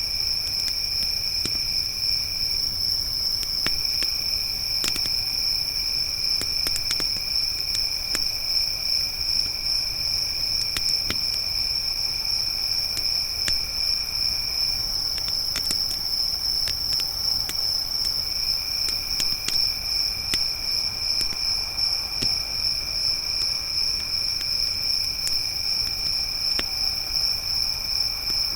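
Crickets trilling steadily in a continuous chorus, with a second, lower insect trill that stops twice and resumes. Scattered sharp crackles and pops of a wood campfire sound over it.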